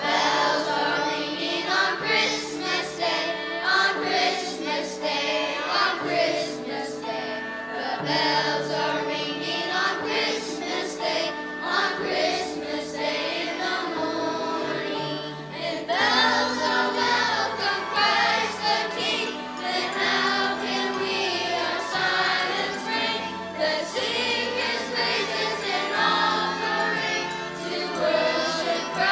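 Choir singing a song with instrumental accompaniment and a moving bass line.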